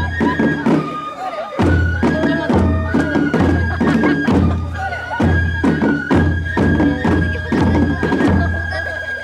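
Japanese festival music: a high flute playing long held notes over regular deep drum beats, about one every 0.7 seconds, with sharp metallic strikes ringing over them.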